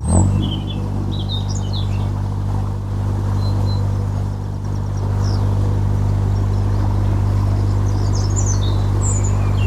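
Narrowboat engine running steadily with an even low hum, and small birds chirping over it.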